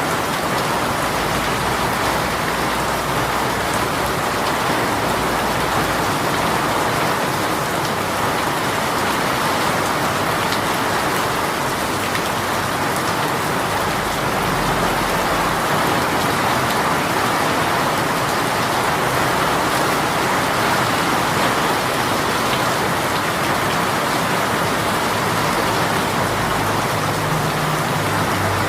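Steady, heavy rain shower: a dense, even patter of raindrops falling on surfaces.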